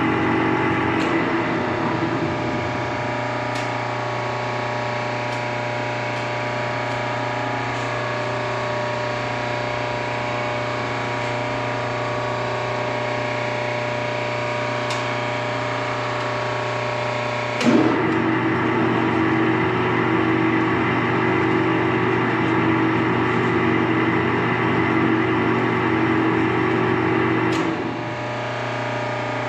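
Steady electric motor hum from a Clausing lathe's three-phase drive. Just past halfway a sharp click comes as a switch or contactor is thrown, and the lathe runs with a louder hum for about ten seconds. It then drops back to the lower steady hum near the end.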